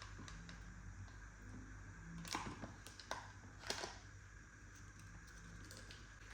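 A few light taps or clicks, the two loudest about a second and a half apart, over a faint steady hum.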